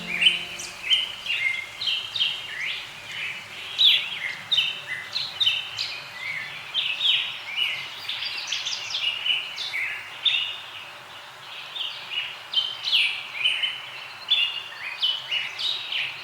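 Birds chirping and singing, a dense chorus of short, high, overlapping calls from several birds.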